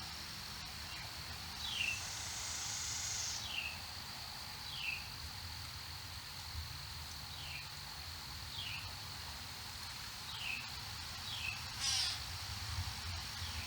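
Short, downward-sliding calls from a small animal repeated about seven times, one to two seconds apart, over a steady high-pitched insect drone; a brief hiss about two seconds in and a short buzzy chatter near the end.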